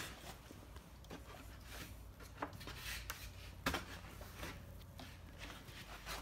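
A few light knocks and clicks of wooden pallet boards being handled, the clearest between about two and four seconds in, over a low steady hum.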